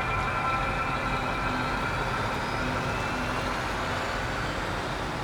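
Steady low rumble of a running vehicle, with several high held tones above it, slowly fading.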